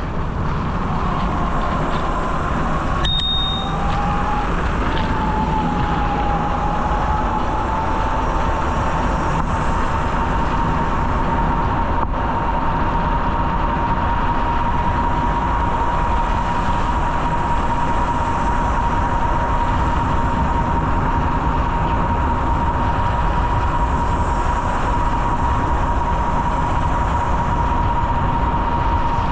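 Bicycle ride recorded on the move: steady wind rush and rolling noise, with a thin steady whine that climbs a little in pitch over the first few seconds and then holds. A short bell-like ding sounds about three seconds in.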